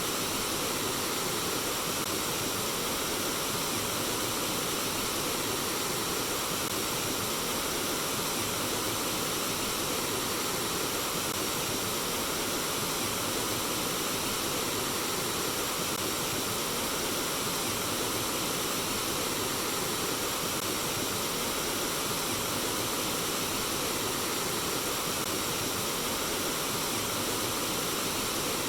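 Flowing water, a steady and unchanging rush.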